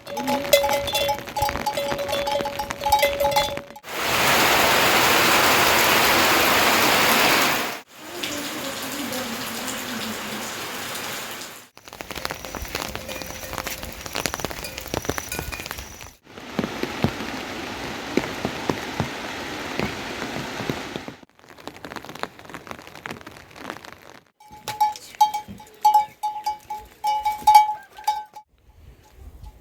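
Rain falling and pattering on surfaces, in a string of short clips that change every few seconds, heaviest and most even about four to eight seconds in. Near the start and again near the end, steady high tones sound over the scattered drops.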